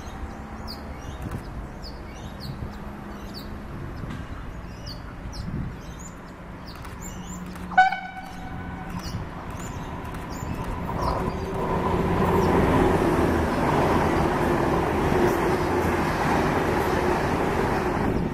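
Small birds chirp, then a VLocity diesel railcar gives one short horn toot about eight seconds in. The train's engines and wheels on the rails then grow louder and stay loud as it passes through the station at speed.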